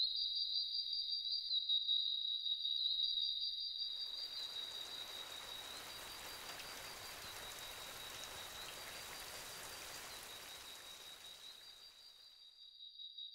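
Rainforest ambience: insects trilling steadily at a high pitch. About four seconds in, steady rain joins them and fades out near the end, leaving the insects.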